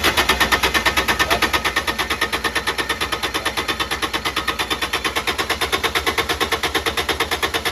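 Kubota D722 three-cylinder diesel on a Carrier Supra 850 reefer turning over on its starter, a fast, even chugging of about nine beats a second. The engine does not catch: this is the no-start being chased.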